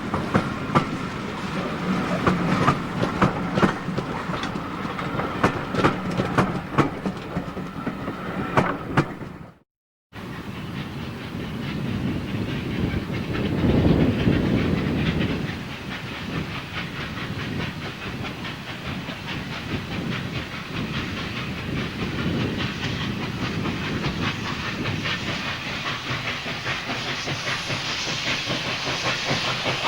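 A train runs past with its wheels clicking over the rail joints, until the sound cuts off sharply about ten seconds in. After that, a steam locomotive gives off a steady hiss of escaping steam, with a louder surge about four seconds later.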